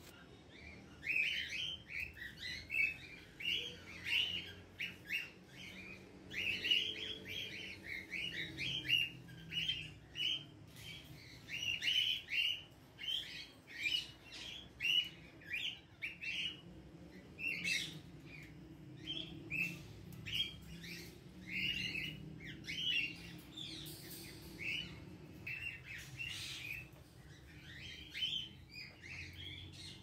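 Birds chirping in quick succession, a few short calls a second, with no let-up.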